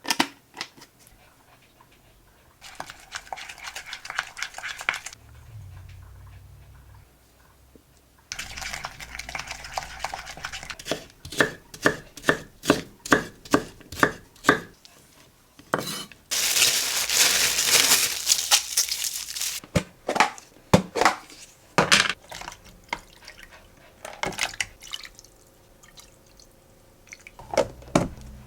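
Kitchen food-preparation sounds: utensils and dishes clinking, a run of regular knocks about twice a second, and a few seconds of steady hiss from running water or cooking.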